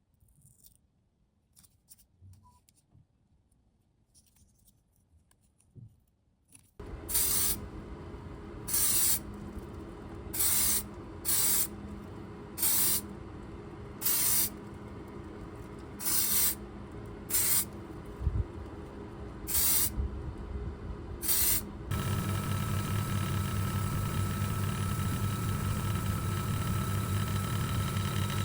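Paint spraying in about a dozen short hissing bursts over a steady motor hum, after a few seconds of faint clicks. About 22 seconds in, a louder steady machine hum with a high whine takes over.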